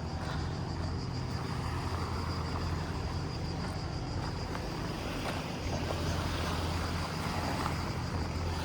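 Steady outdoor background noise on a lakeside walk, with a constant low rumble like wind on the microphone.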